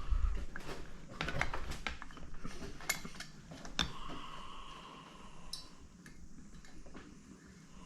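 Small metallic clicks and taps of a screwdriver and loose screws on a Stromberg carburettor as its bottom screws are taken out, busiest in the first four seconds and then sparser and fainter.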